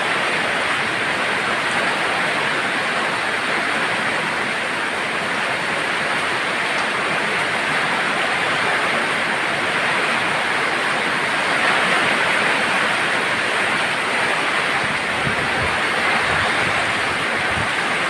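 Steady heavy rain falling, an even hiss with a little wind.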